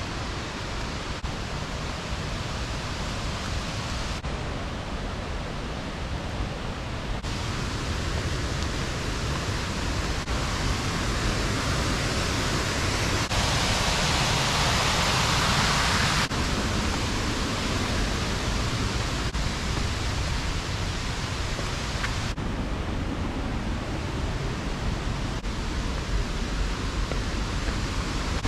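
Waterfall: a steady rush of falling water, changing in level and tone at several cuts, and loudest for a few seconds in the middle.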